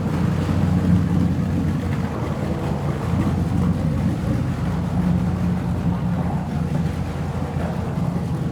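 Steady low droning rumble with a hum underneath, in an underwater recording; no knocks or bangs.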